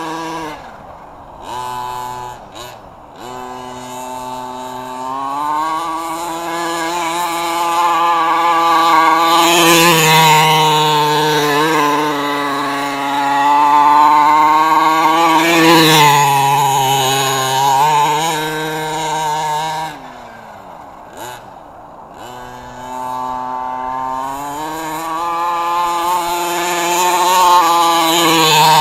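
Redcat 1/5-scale monster truck's 32cc two-stroke gas engine running under changing throttle, with revs climbing and falling as it drives. It drops back to low revs twice, about a second in and again around twenty seconds in.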